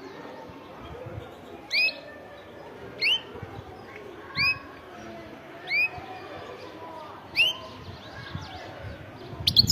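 European goldfinch calling: one short arched note repeated about every one and a half seconds, six times in all.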